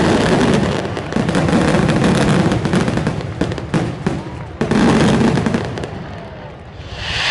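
Fireworks display: a dense barrage of shell bursts and crackling, with rapid overlapping bangs, easing off about six seconds in.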